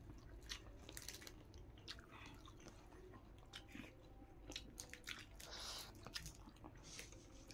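Faint close-up chewing and mouth noises of a person eating rice with sautéed leafy greens by hand, with scattered small clicks and crunches.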